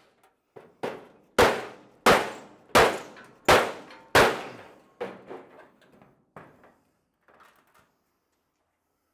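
A hammer striking the steel trunk lid of a 1928 Ford Model A, reshaping its curve to match the quarter panels. A couple of light taps lead into five hard, ringing blows about 0.7 seconds apart, then a few lighter taps tapering off.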